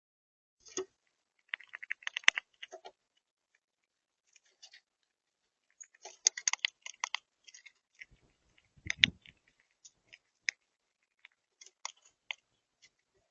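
Irregular clicks and crunches in short clusters, typical of birds and a squirrel pecking and cracking seed at a feeder, with a louder knock about nine seconds in.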